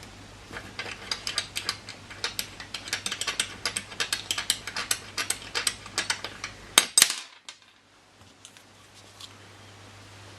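Quick, irregular clicking and rattling from handling a small spirit burner and its fuel bottle while getting ready to fill it with methylated spirits, ending in two louder knocks about seven seconds in.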